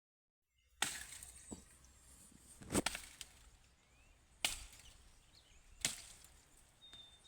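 A blade chopping into wood: four sharp strikes, about one and a half to two seconds apart.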